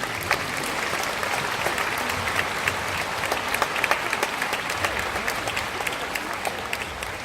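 A hall full of people applauding, a dense patter of many hands clapping that tapers off near the end, as the mayor is welcomed to the podium.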